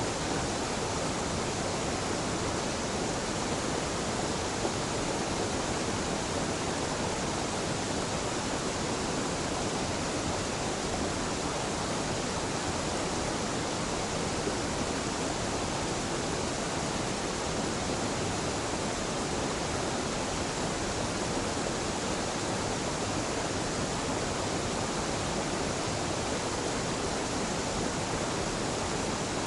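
A small mountain waterfall and stream: a steady, even rush of falling water.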